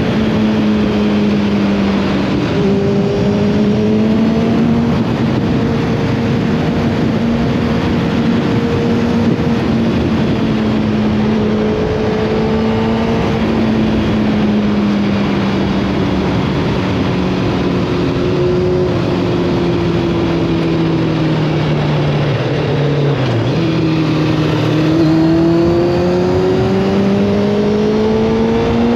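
Motorcycle engine running under way, with rushing wind over it. The engine pitch holds fairly steady, sinks slowly a little past the middle, then climbs again near the end as the bike speeds up.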